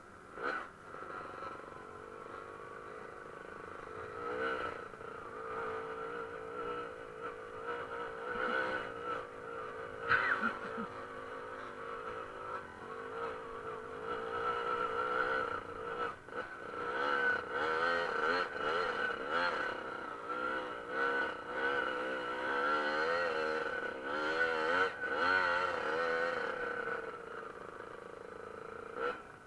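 Dirt bike engine running and being revved, its pitch rising and falling again and again, with a few short knocks along the way.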